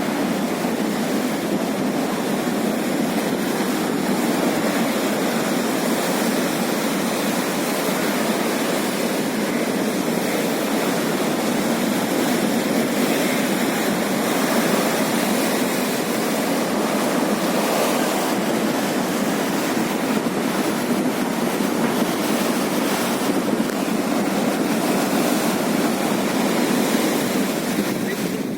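Sea waves washing against the shore as a steady, unbroken rush of water noise, with some wind.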